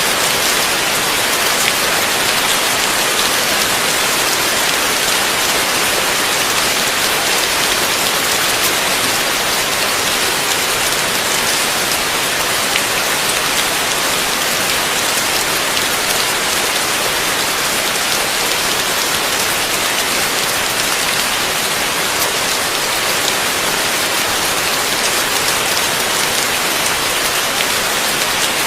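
Heavy rain falling steadily, a dense even hiss with faint drop ticks and no thunder.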